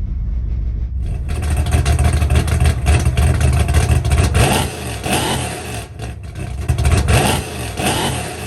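Small pit bike engine running loud, revved in several short blips that rise and fall in pitch.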